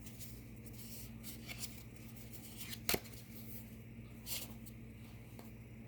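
Tarot cards handled quietly as a card is drawn from the deck, with one short sharp click about three seconds in and a soft rustle a little later, over a steady low electrical hum.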